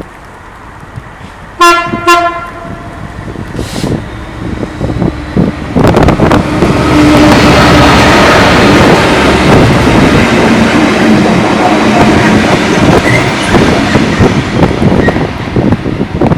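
Train horn sounding two short blasts on one pitch, then a train passing close by with loud rushing wheel and rail noise for about ten seconds, dying away near the end.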